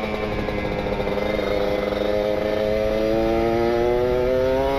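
Kawasaki Ninja RR single-cylinder two-stroke engine under load through an R9 carbon aftermarket exhaust. It holds its pitch for about two seconds, then revs steadily higher as the bike accelerates. It is running a very rich ('basah') carburettor setting.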